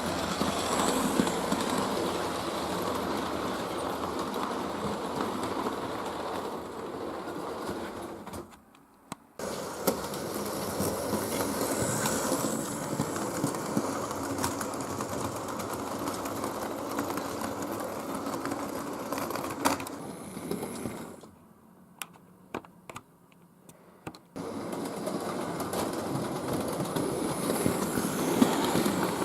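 Model Flying Scotsman locomotive running on a model railway: its small electric motor whirs steadily and its wheels click on the track. The sound cuts out briefly twice, about nine seconds in and about twenty-two seconds in.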